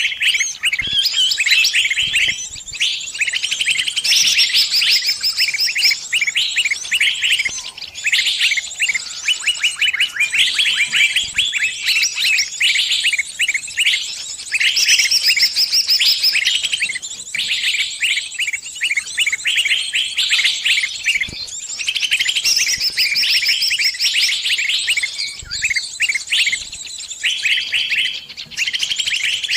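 A small songbird's rapid, unbroken high chirping and twittering: the distress call of a bird caught and pinched, calling its flock for help.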